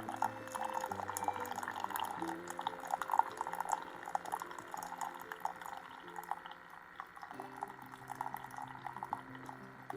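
Suripow single-serve coffee maker brewing a K-cup: coffee trickling and dripping into the cup as a steady stream of small splashes.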